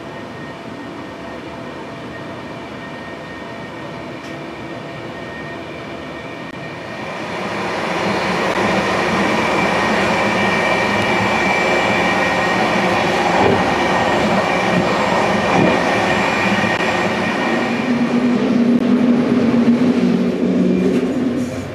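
Passenger train running on the rails, a steady rumble that grows clearly louder about seven seconds in and stays up, with a thin high squeal from the wheels.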